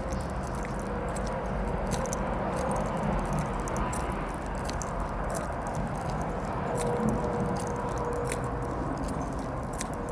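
Steady low background rumble with a faint hum, and scattered light ticks and footstep sounds while walking.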